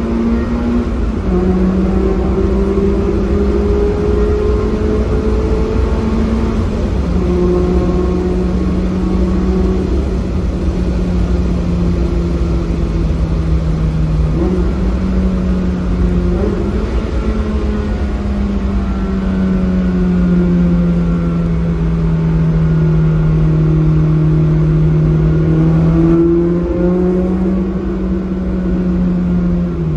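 Mazda NB Roadster's inline-four engine and aftermarket exhaust (Maxim exhaust manifold, third catalytic converter, AutoExe muffler) running under way in a tunnel. The exhaust note holds a steady drone that jumps in pitch a few times, sags slowly in the second half and climbs again near the end.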